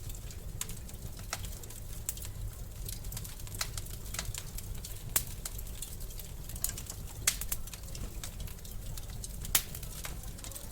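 Wood fire in a fireplace crackling: a steady low rumble of flames with sharp, irregular pops and snaps, a few of them louder than the rest.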